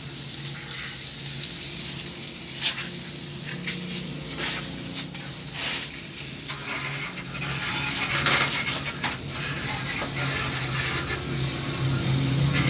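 Water spraying onto a window air conditioner's coil fins and metal housing: a steady hiss broken by irregular splashes and spatters.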